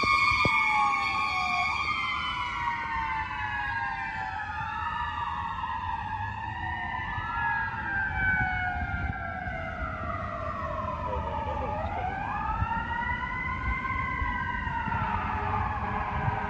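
Fire engine sirens wailing, several tones overlapping as they slowly slide down and back up in pitch. They fade somewhat over the first couple of seconds as the engine moves away, then hold steady.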